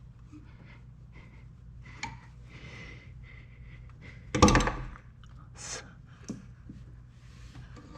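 Light clicks and knocks, then one loud thunk about halfway through, as an aluminium cylinder head is worked into place onto the engine block over a new head gasket.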